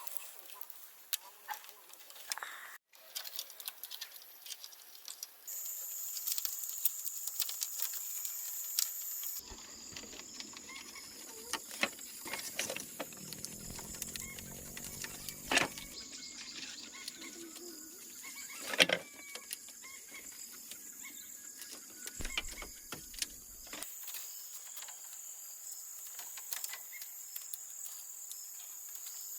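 Outdoor ambience with a steady high-pitched insect-like drone that starts about five seconds in, and many scattered sharp clicks and taps.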